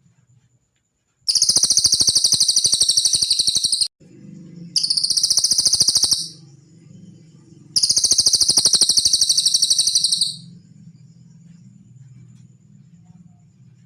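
Cililin bird singing three rapid, high-pitched trills, each two to three seconds long with short pauses between, over a faint steady low hum.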